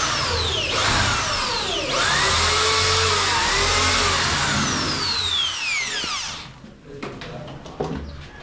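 Electric drill running hard for about six and a half seconds, its pitch rising and falling as the trigger and load change. It is drilling holes for the rivets that hold the cornice moulding. It stops suddenly and a few light knocks follow.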